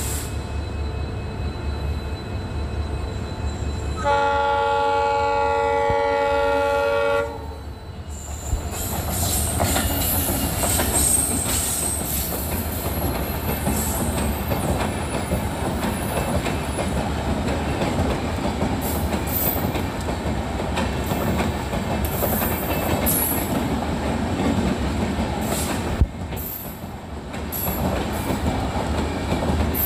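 Indian Railways locomotive horn sounding one steady blast of about three seconds, several tones together. Then a train of LHB passenger coaches rolls past close by, its wheels rattling and clicking over the rails.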